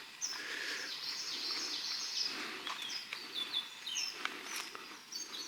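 Birds chirping and singing: many short high notes, some falling in little steps, over a faint steady background hiss, with a few light ticks here and there.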